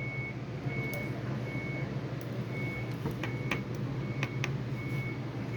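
A vehicle's reversing alarm beeping at a steady high pitch, about once every three-quarters of a second, over a low engine hum. A few light clicks come in the middle.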